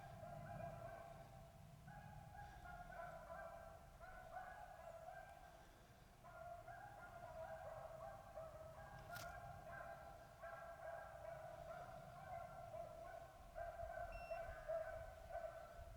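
Beagles baying faintly in the distance, their long overlapping bawls running almost without a break: the hounds in full cry, running a rabbit's track.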